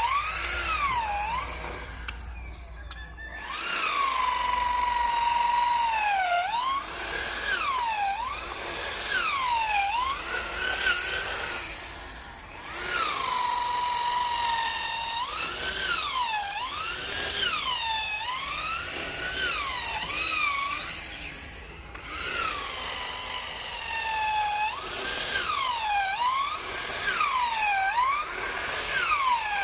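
Power drill boring into an agarwood tree trunk. The motor's whine repeatedly sags in pitch as the bit bites into the wood and climbs back as it frees, about once every one to two seconds.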